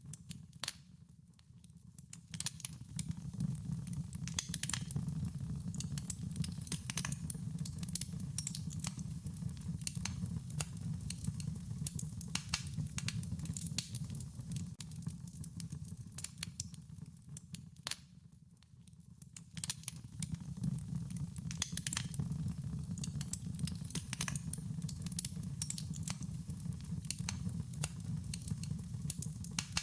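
Wood fire burning, with dense irregular crackles and pops over a steady low rumble of flames. The sound dips briefly twice, about a second in and again just past halfway.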